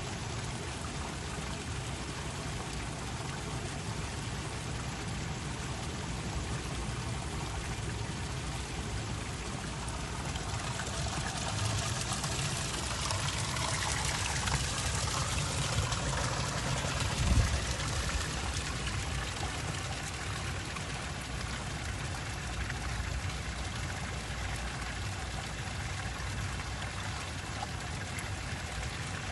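Water fountain splashing steadily into a pool, louder for a few seconds in the middle, with one brief low thump a little past halfway.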